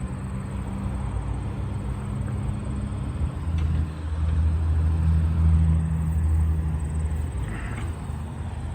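Diesel engine of heavy construction machinery running steadily. About three seconds in it works harder and turns louder and deeper, then eases off near the end.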